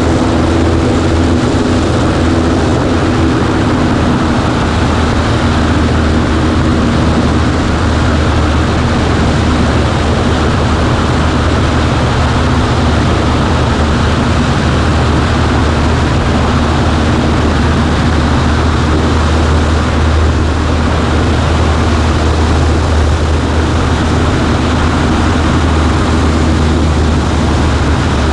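Cessna 140A's piston engine and propeller running steadily, a loud, even hum with no change in pitch.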